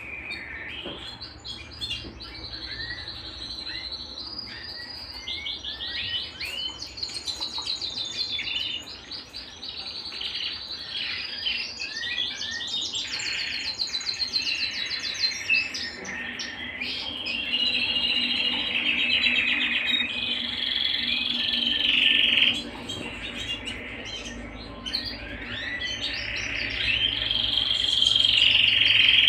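Domestic canary singing: an unbroken run of rolling trills made of rapidly repeated high notes, switching from one rolled phrase to the next every second or two and growing louder towards the end.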